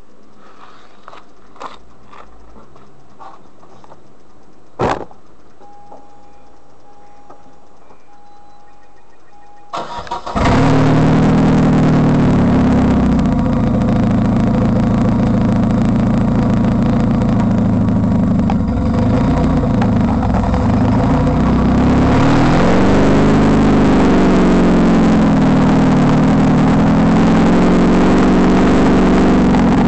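Daewoo Lanos engine with a 52 mm stainless-steel exhaust cranked and started about a third of the way in, then idling steadily, its pitch wavering briefly around the middle. Before the start there are a few light clicks, one sharp click and a repeating beep.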